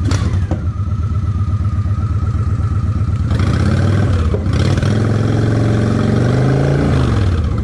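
Honda Shadow 750 ACE's V-twin engine idling, running with its air filter box off. About three seconds in it is revved up, held at higher revs for a few seconds, then drops back to idle near the end.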